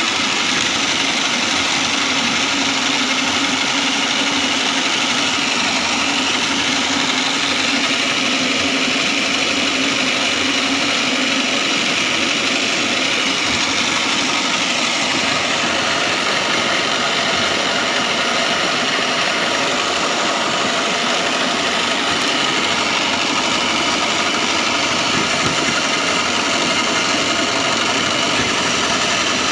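Foam shredding machine running steadily, a loud, even mechanical drone with no change in speed.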